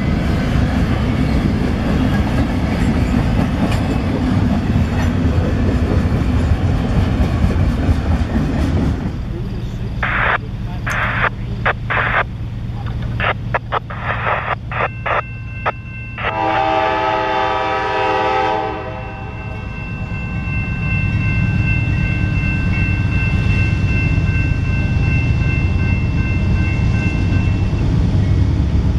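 Double-stack freight cars roll past with a dense, steady rumble of wheels on rail. About nine seconds in, this gives way to the deep rumble of approaching CSX diesel locomotives with scattered sharp clicks. About sixteen seconds in comes a horn blast of a couple of seconds, with faint steady high tones behind it.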